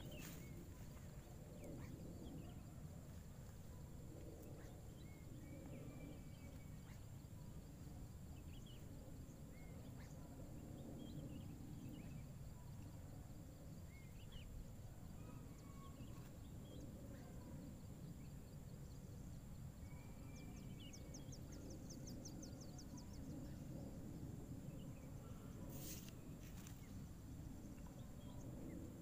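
Faint outdoor ambience: a low steady background rumble with scattered short bird chirps. A brief rapid ticking comes about three quarters of the way through, and a single sharp click near the end.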